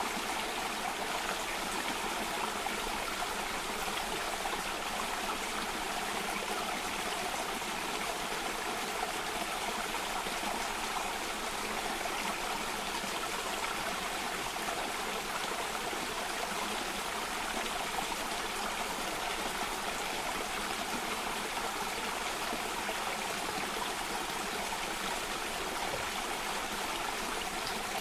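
Running water flowing steadily over rocks, like a stream or small cascade, as an even, unbroken rush.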